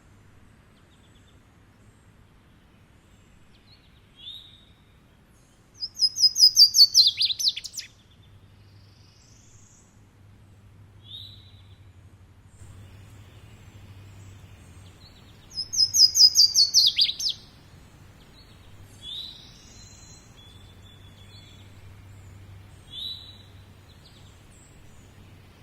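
A songbird singing: two songs of about two seconds each, each a rapid run of repeated notes falling in pitch, with short single chirps between them.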